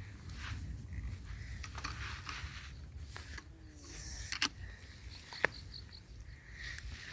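Outdoor hiking ambience: a low wind rumble on the microphone with light rustling and scattered small clicks, two sharper clicks about four and a half and five and a half seconds in.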